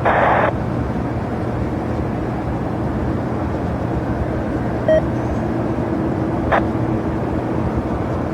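Steady rumble of distant jet aircraft engines across the airport, with a low hum that rises slightly in the second half. A brief burst of ATC radio squelch opens it, and there are two faint clicks near the middle.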